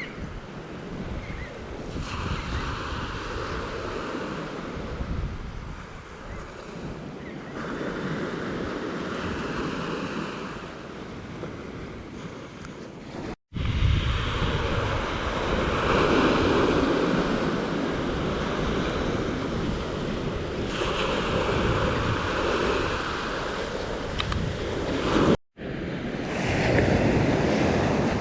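Ocean surf breaking on a beach, the waves swelling and washing in every few seconds. The sound drops out abruptly twice, about halfway through and near the end, where recordings are joined.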